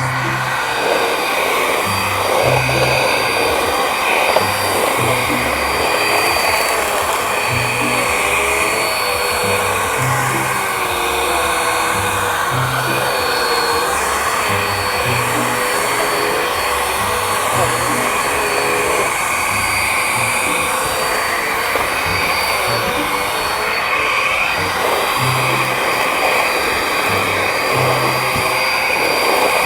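A vacuum cleaner's motor running steadily with a constant high whine, used to suck up a park lawn, mixed with background music that carries a rhythmic bass line.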